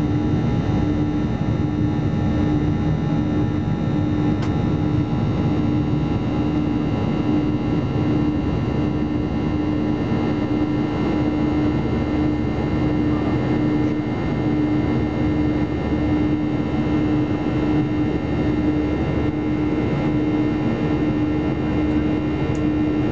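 Steady roar of a Boeing 737-800's CFM56-7B jet engines and airflow, heard inside the passenger cabin, with a constant droning hum running through it.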